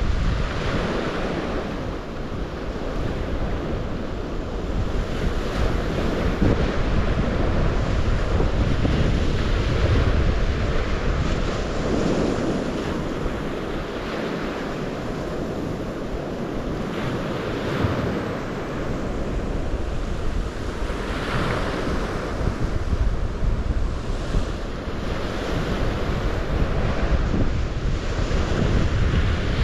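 Water rushing and washing without a break, swelling and easing every few seconds, with wind buffeting the microphone.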